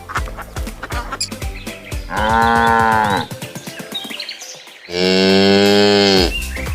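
Cow mooing twice: two long calls, the second louder, each dropping in pitch as it ends.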